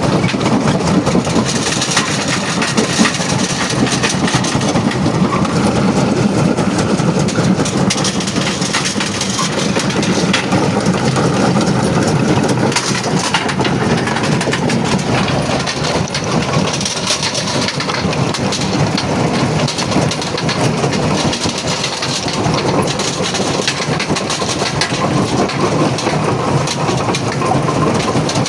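Primary jaw crusher breaking rock, running steadily with a dense, continuous clatter and cracking of stones over a low machine drone.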